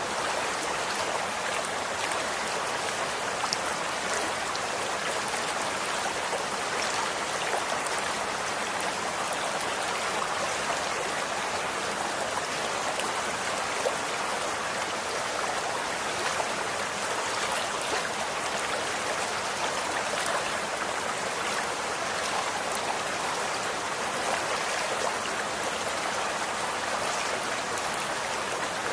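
Running water, a stream flowing steadily with a continuous rushing hiss and small splashes and drips scattered through it.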